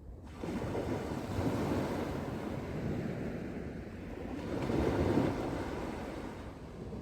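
Ocean waves breaking and washing up the beach, swelling about a second in and again around five seconds, with wind on the microphone.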